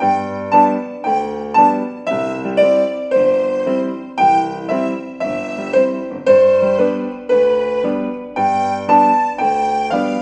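Gentle solo keyboard music in a piano tone: single melody notes and chords struck about twice a second over low bass notes, each note dying away.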